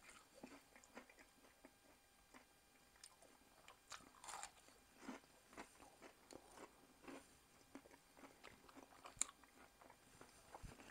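A person chewing a mouthful of air-fried breaded chicken quarter pounder: faint, irregular crunches and clicks, with one sharper click near the end.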